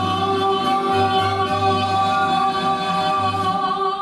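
Two women's voices holding one long sung note over a backing track with a pulsing bass; the note fades out near the end.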